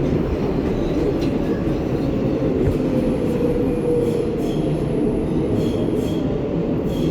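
Inside an R188 subway car on the 7 line: a steady running rumble with faint thin wheel squeal, as the train moves at the station.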